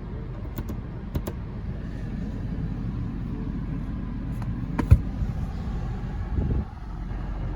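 Steady low rumble inside the cabin of a 2017 Nissan Rogue SV with its 2.5 L four-cylinder idling, with a few light clicks and one sharper knock about five seconds in.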